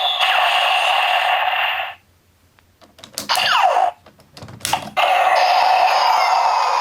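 Electronic sound effects from a Kamen Rider Fourze toy's small speaker. The tinny effect runs for about two seconds and cuts off, then come a few clicks and quick falling sweeps, and a second long effect starts about five seconds in.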